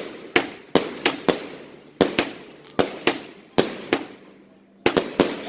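Stugots consumer firework firing a rapid string of sharp bangs, roughly two or three a second, each trailing off in an echo, with a short pause about four seconds in before the bangs resume.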